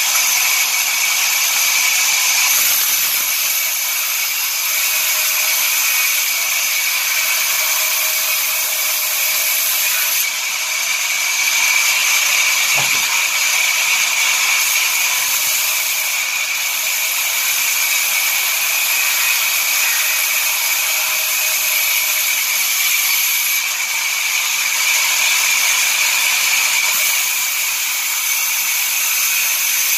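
Sawmill saw running through wood: a loud, steady, high-pitched mechanical whine over a hiss, with a single knock about halfway through.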